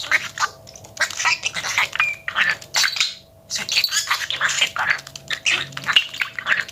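Budgerigar chattering: a fast, scratchy stream of warbles, clicks and squeaks, with a short pause about halfway through.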